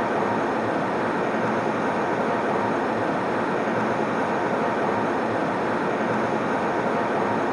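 Steady airplane cabin noise in flight: an even, unchanging rushing hiss, strongest in the middle range, with no tones or changes.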